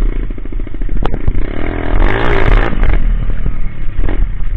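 Coolster Speedmax 125 pit bike's single-cylinder engine running under way, with a louder burst of revving about two seconds in that rises and falls.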